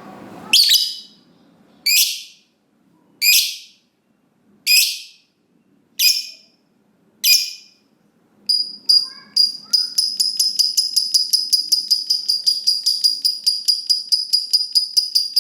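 Lovebird calling: six harsh, high single calls about a second and a half apart, then in the second half a long, rapid chattering trill of about seven notes a second, the long 'ngekek' call that lovebird keepers prize.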